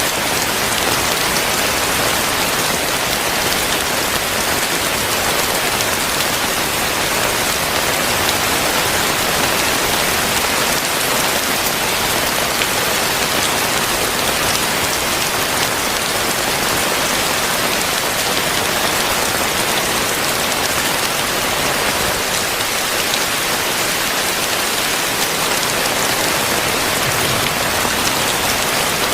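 Heavy rain falling and pattering on surfaces in a steady, dense hiss that does not let up.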